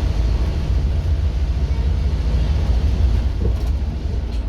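Scania K230UB OmniLink bus's diesel engine running under way, a steady low rumble with road noise above it.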